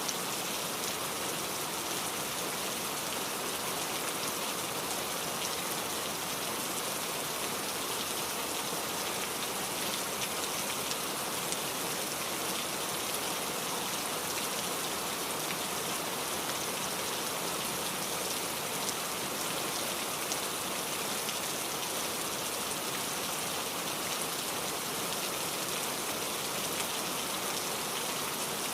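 Steady rainfall, an even hiss of drops with faint individual patters, no thunder.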